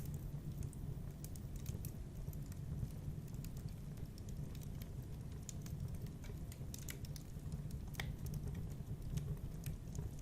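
Wood fire burning in a fireplace: a steady low rumble of flames with frequent small, sharp crackles and pops at irregular intervals.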